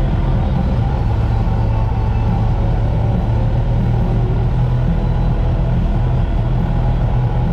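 Kawasaki Z900 motorcycle's inline-four engine running steadily at low speed in slow traffic, a constant low drone with road noise.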